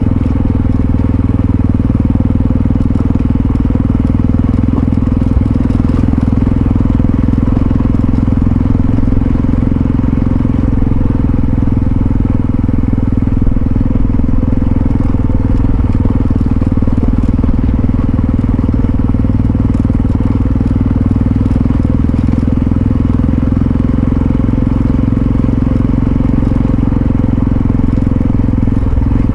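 Yamaha XT660Z Ténéré's single-cylinder four-stroke engine running at a steady cruising speed, its drone holding one pitch with no revving, over a constant low rumble of wind and road noise.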